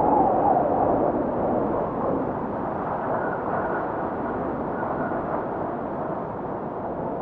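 Blizzard wind blowing hard, with a wavering howl in the first second that fades into a steady rush, and a faint high whistle for a moment in the middle.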